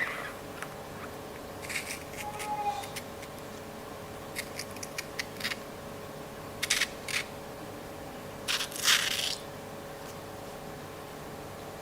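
Scattered short crunches and clicks, about a dozen, from materials being handled, with a longer crunch near the start and another near the end, over a faint steady hum.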